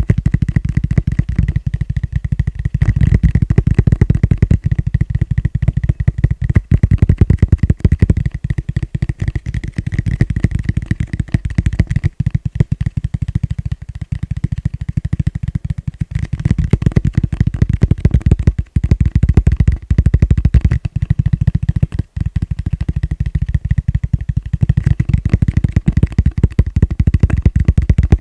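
Fast tapping on a plastic bowl: a dense, continuous run of quick, dull taps, broken by a few brief pauses.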